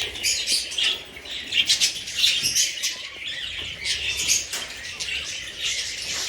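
A flock of budgies chirping and chattering without a break, many short overlapping calls at once, with some wing flapping.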